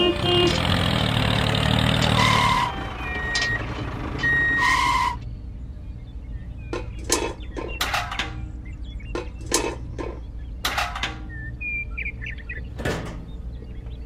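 A loud, even rushing noise for about five seconds that cuts off suddenly. Then sharp, separate clicks and knocks of small plastic toy parts being handled and set down: a miniature cement bucket placed on the ground and a toy concrete mixer drum moved by hand.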